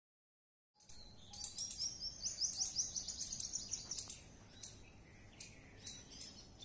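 Small birds chirping, starting about a second in: a fast run of high chirps for about three seconds, then scattered calls.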